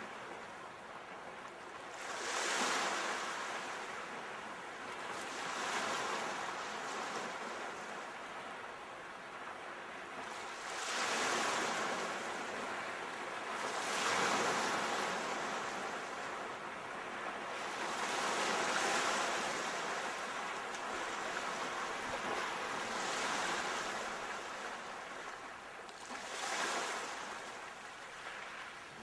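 Sea waves breaking and washing onto a shore, each wave swelling into a hiss and ebbing, about every four or five seconds.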